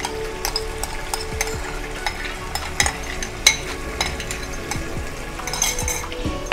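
Chicken korma frying in oil in a wok, sizzling with scattered sharp pops and spits as the oil bubbles around a freshly added wet onion paste.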